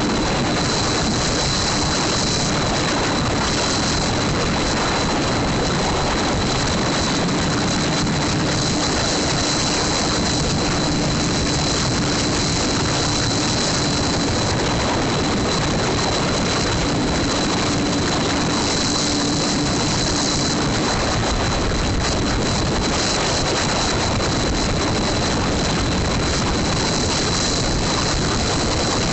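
Motorcycle running steadily with heavy, even noise and no change in speed or rev, with a steady high whine throughout and a low hum through the middle part.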